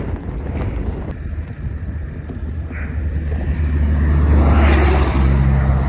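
Wind rumbling on the microphone of a moving bicycle, with a motor vehicle driving past close by: its engine and tyre noise swell from about halfway through and are loudest near the end.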